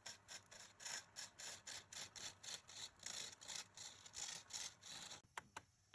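Rapid back-and-forth hand scrubbing on a hard surface, about five strokes a second, stopping about five seconds in, followed by two sharp clicks.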